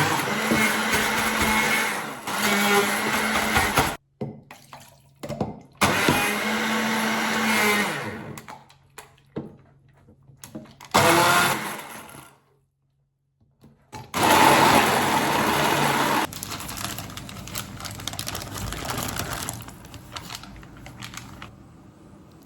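Electric blender running in several bursts of a few seconds each, stopping and restarting, while blending pistachio pesto.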